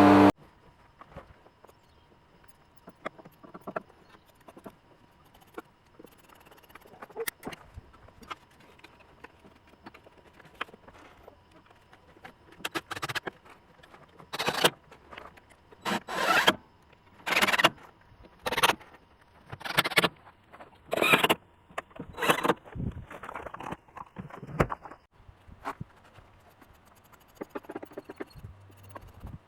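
A run of scraping strokes, about one a second for several seconds, between scattered light clicks and handling noises.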